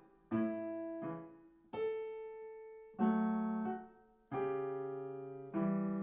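Piano played slowly with both hands together, a bass note under the melody: about seven separate notes and chords, each struck and left to ring and fade.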